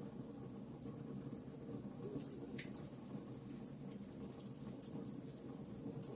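Logs burning in a fireplace: a steady low sound of flame with irregular sharp crackles and pops.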